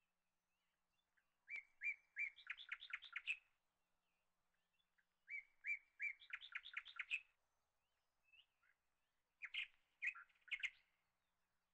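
A songbird singing faintly. It sings two phrases, each a few high notes that run into a quick trill, then a shorter burst of notes near the end.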